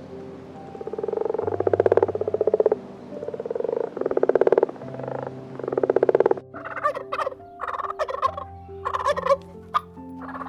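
A series of rapid, rattling animal calls, each about a second long, giving way after about six seconds to shorter, choppier, higher-pitched calls.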